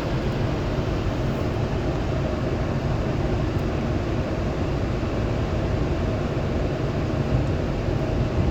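Automatic car wash machinery heard from inside the car's cabin: a steady, loud wash of spraying water and rotating equipment over a low rumble.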